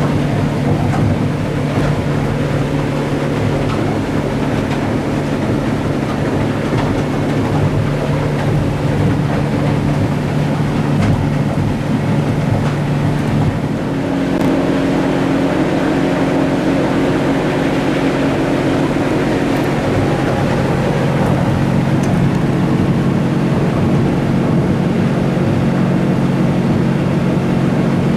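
Outboard motor running as the boat travels under way, with wind and water noise over it. About halfway through, the engine note shifts as the motor's speed changes.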